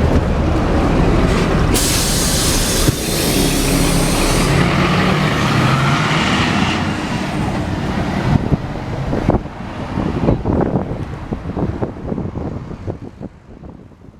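Scania K340IB bus with a Scania DSC9 diesel engine running, with a loud burst of compressed-air hiss lasting a couple of seconds near the start. Then knocks and rattles as the sound fades away over the last few seconds.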